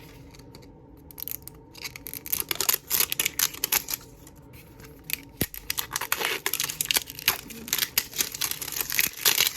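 Plastic packaging crinkling and tearing as a small toy capsule's wrapped pieces are unpacked: irregular runs of sharp crackles, starting about two seconds in, pausing briefly around the middle, then going on near the end.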